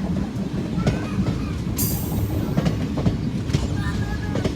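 Passenger train running on the rails: a steady low rumble with repeated wheel clicks over rail joints, and a short high hiss about two seconds in.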